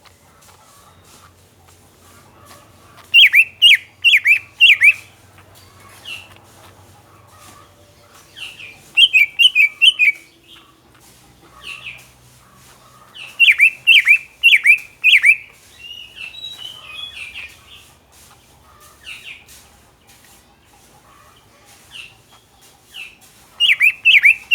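A bird singing: four loud bursts, each of five or six quick, down-sweeping whistled notes, spaced several seconds apart, with softer chattering calls between them.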